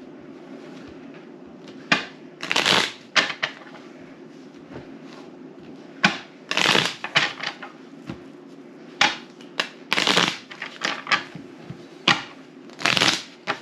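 Playing cards being handled: short rustling bursts of cards being shuffled and slid, and sharp clicks of cards laid down on the table, in irregular bunches.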